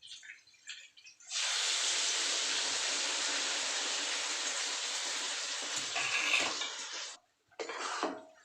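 Water running from a kitchen tap: a steady stream that is turned on about a second in and shut off after about six seconds.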